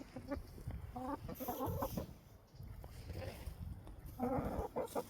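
Hens clucking, with bursts of short calls about a second in and again near the end.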